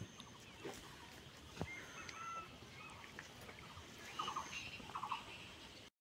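Birds calling: thin high chirps and whistles, with two short rattling runs of rapid notes, like a fowl's calls, about four and five seconds in. The sound cuts off suddenly just before the end.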